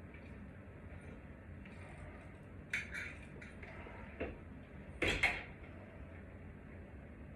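Metal hardware clinking and knocking as it is handled: a quick cluster of sharp clinks about three seconds in, a softer knock, then a louder cluster about five seconds in.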